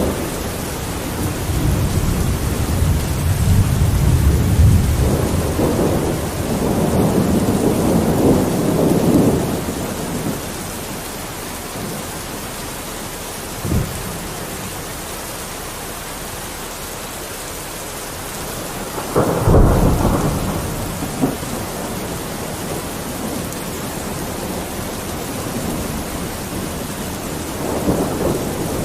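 Steady rain falling on a window, with rolls of thunder: a long low rumble over the first ten seconds or so, a short crack near the middle, and a sharper clap about twenty seconds in that dies away over a couple of seconds.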